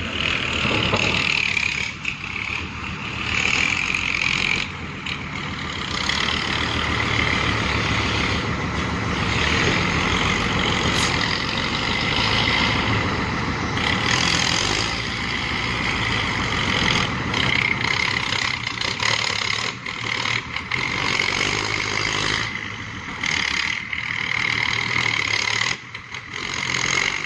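Diesel engines of a six-wheel dump truck stuck in sand and a tractor pushing it, running hard under load.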